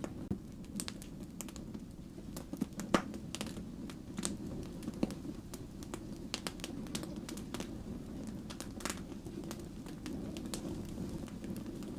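Firewood burning: a steady low rush of flames with frequent sharp, irregular crackles and pops, the loudest pop about three seconds in.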